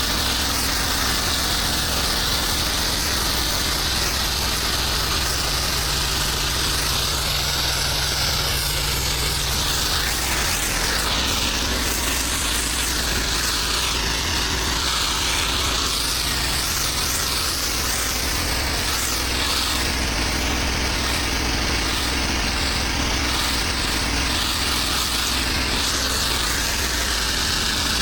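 Pressure washer's gas engine running steadily, with a continuous hiss of water spray over it.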